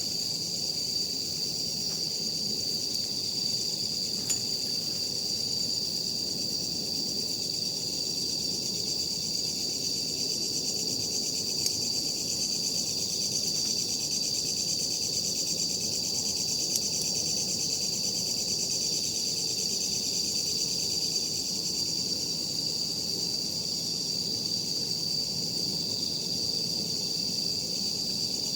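Steady, high-pitched trilling of night insects such as crickets, with a few faint crackles from a wood campfire.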